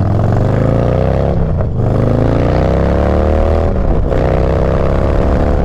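Motorcycle engine accelerating through the gears: the engine note rises, drops sharply at an upshift about one and a half seconds in, climbs again, and drops at a second upshift near four seconds before rising once more.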